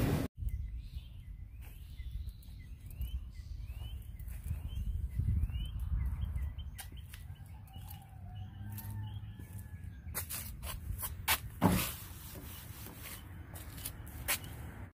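Small birds chirping over and over with short rising calls, over a low outdoor rumble. Several sharp clicks and one louder knock come near the end.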